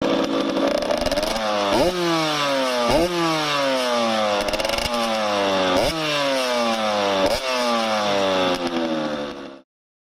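KTM 85 two-stroke motocross bike engine being revved hard again and again: the pitch jumps up sharply, then falls away over about a second, several times over. The sound cuts off abruptly near the end.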